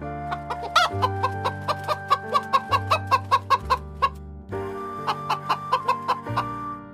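Chicken clucking in two quick runs of short clucks, about four a second, over background music with steady held notes.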